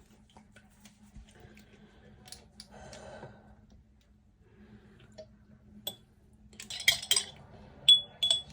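Glassware and dishes being handled: scattered light taps and clinks, then a few sharper glassy clinks with a brief ring near the end.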